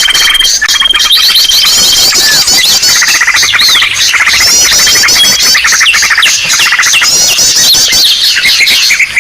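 Bird-lure ('pikat') recording: a loud, dense chorus of many small birds calling over one another, made to draw birds in. Fast repeated chirps and squeaky trills run throughout, with a steady high whistle for the first two seconds.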